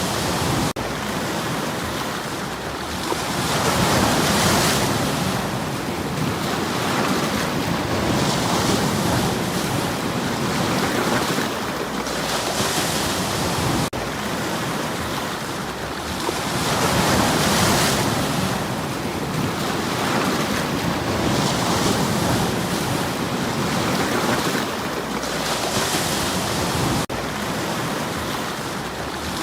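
Sea waves washing against shoreline stones, a steady rushing surf that swells and falls back every few seconds.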